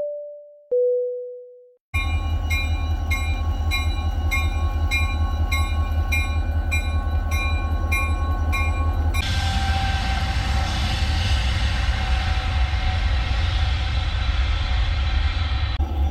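Two short falling chime tones, then railway sound: a bell-like ringing struck about twice a second over a deep steady rumble. About nine seconds in it gives way to a rushing noise over the rumble.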